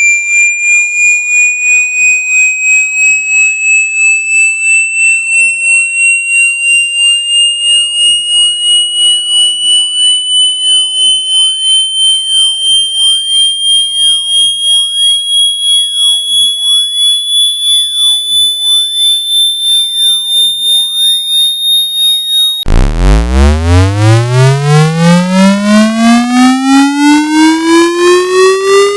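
Synthesised water-eject cleaning tone: a pure, high whistle pulsing about two and a half times a second and gliding slowly upward. About three-quarters of the way through it cuts off and a buzzy tone rich in overtones starts from a deep hum and sweeps quickly upward.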